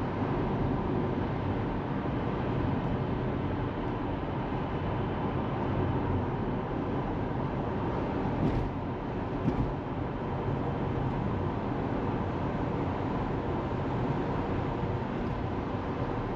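Steady tyre and road noise inside a moving Tesla Model 3's cabin, with no engine note from the electric drive. About halfway through, two brief thumps about a second apart, as the tyres go over bumps or joints in the road.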